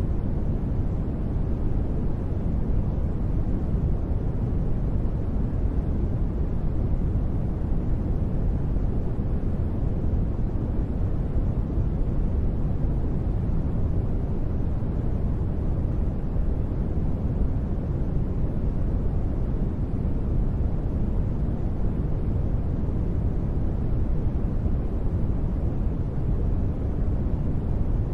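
Continuous steady noise for sleep, even and unchanging, deep and rumbling rather than hissy, with most of its weight low down and little high hiss.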